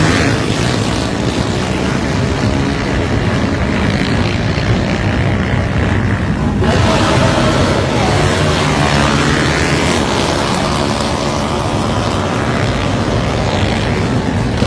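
Motorcycle engines running loud and revving, the pitch rising and falling. The sound changes abruptly about halfway through.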